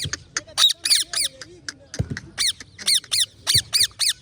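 Parrot giving loud, harsh calls, each short and dropping in pitch, in quick runs of three to five with brief pauses between them.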